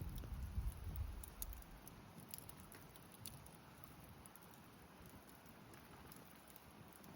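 Faint, scattered small clicks and pops. A low rumble fades out in the first second and a half.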